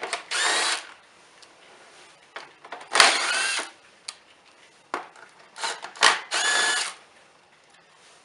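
A cordless power tool with a 10 mm socket runs in several short bursts of about half a second each, its motor whine rising in pitch as it spins up, backing out the 10 mm bolts that hold the electric cooling fan to the radiator.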